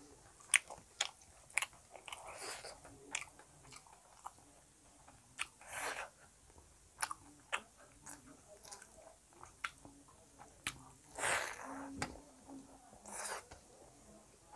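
Close-up chewing of a mouthful of food, wet and smacking, with many short sharp clicks and a few longer, louder crunchy chewing spells.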